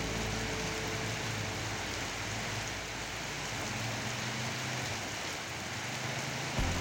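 Heavy rain pouring steadily, with vehicles driving past on the flooded road, tyres hissing through the water.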